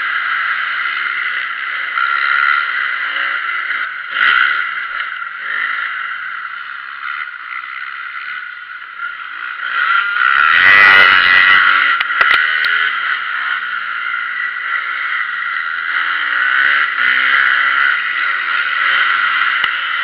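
Motocross bike engines revving up and down around a dirt track, rising and falling with the throttle, with one pass louder and closer about halfway through.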